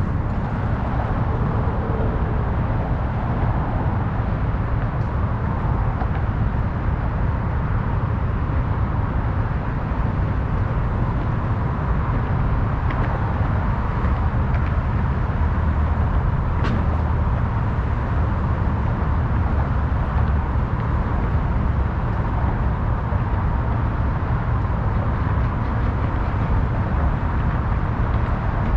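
Steady city road traffic: a continuous rush of passing cars with a deep low rumble. A few faint ticks stand out briefly around the middle.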